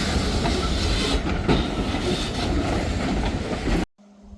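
Freight train rolling past at close range, its wheels clacking over the rail joints with a dense rumble. It cuts off abruptly near the end, leaving only a faint steady low hum.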